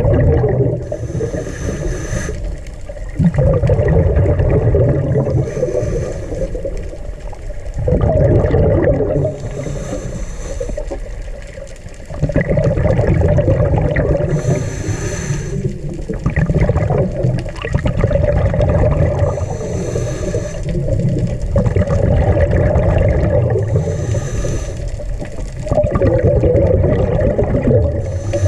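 Water gurgling and bubbling in surges that come about every four to five seconds, each with a short hissing rush.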